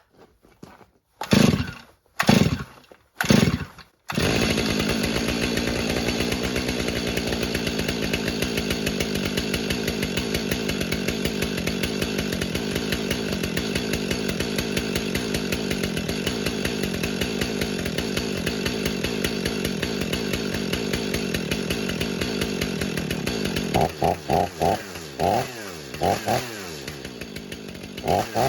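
Stihl MS500i fuel-injected two-stroke chainsaw cold-started with the pull cord: three quick pulls, and it catches on the third. It then runs steadily for about twenty seconds, and near the end it is given a few short revs.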